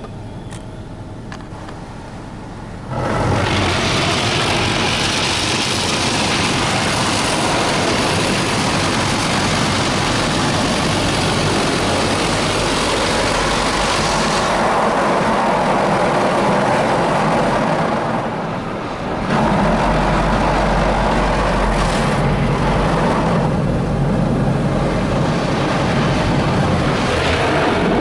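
Spinning car-wash brushes and water spray scrubbing over the car, heard from inside the cabin. It is a loud, steady wash noise that starts suddenly about three seconds in, eases briefly past the middle, then comes back with a deeper rumble.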